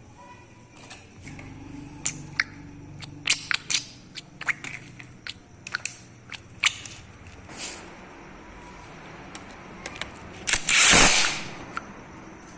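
Metal tools clinking and knocking against engine parts during motorcycle engine assembly: a run of sharp, irregular clicks and clanks, then one loud hissing burst about a second long near the end.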